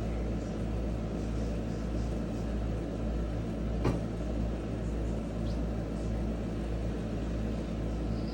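Steady white noise with a strong low rumble, played as a sleep sound. A single sharp click comes about four seconds in.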